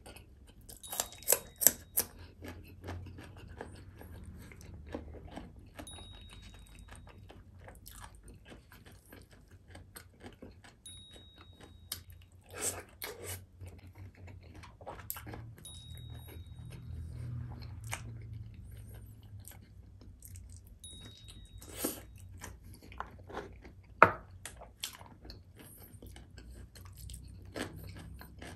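Close-up chewing and wet lip smacking of a mouthful of rice and beef rendang, with sharp mouth smacks scattered through, a few loud ones about a second in and the loudest near the end.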